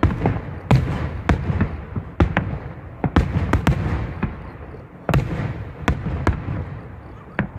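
Aerial firework shells bursting in quick succession: frequent sharp bangs, sometimes two or three within a second, over a continuous low rumble of echoing reports.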